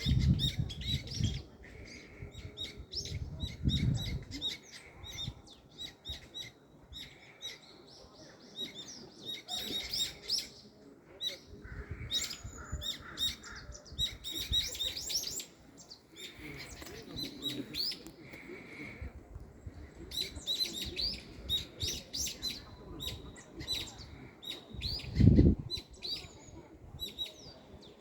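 Wild birds chirping, many short high calls repeating and overlapping throughout. A few low rumbles come through as well, the loudest a short thump near the end.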